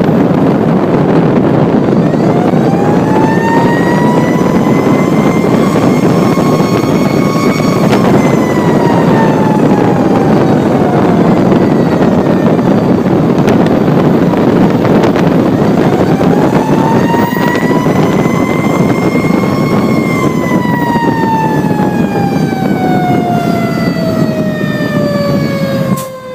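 Fire engine siren slowly winding up in pitch and back down, twice over, with loud steady vehicle noise underneath. The first rise starts about two seconds in, and the second falling sweep runs on at the end.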